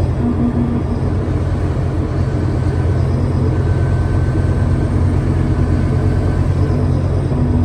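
Scania K320UA bus running: a steady, loud low engine drone, with a humming tone that fades in and out over it.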